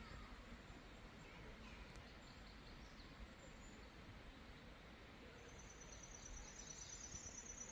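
Quiet forest ambience with a few faint bird chirps; about two-thirds of the way through a thin, high, steady trill starts up and keeps going.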